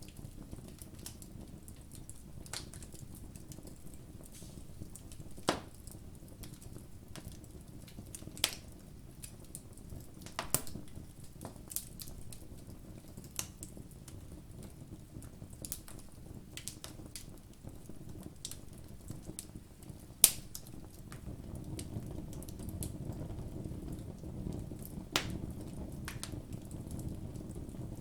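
Campfire burning: sharp irregular pops and crackles over a low steady rush of flame. The loudest pop comes about twenty seconds in.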